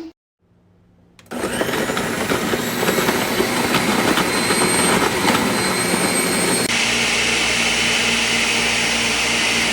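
Ninja Professional blender's 1000-watt motor starts about a second in and runs, with clicks and rattles from the pitcher at first. About two-thirds of the way through the sound changes and settles to a steadier, even whir.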